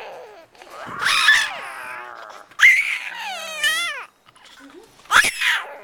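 A young child's high-pitched shrieks, made as pretend jungle-cat roars. There are three cries, and the second slides down in pitch.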